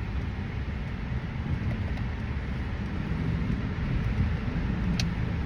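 Steady low rumble of a car driving in slow traffic, heard from inside the cabin, with road and engine noise and a single short click near the end.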